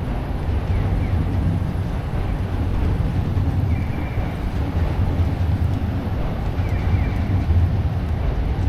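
Steady low rumble of city traffic on a rainy street, with a faint short high tone that repeats about every three seconds.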